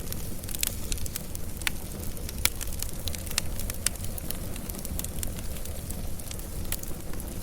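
Wood fire burning with a steady low rumble and frequent irregular crackles and sharp pops.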